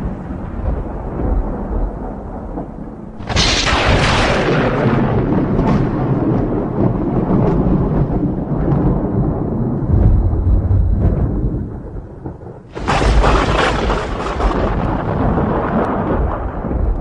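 Thunder: two sharp cracks, about 3 seconds in and again about 13 seconds in, each followed by a long rolling rumble that slowly fades, with low rumbling between them.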